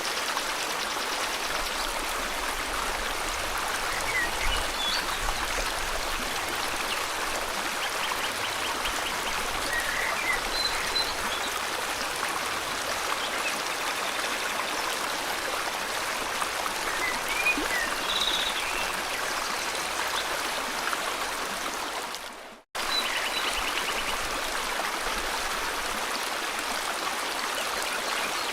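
River water flowing steadily, a continuous rush, with small birds chirping and trilling now and then. About two-thirds of the way through, the whole sound fades out briefly and cuts straight back in.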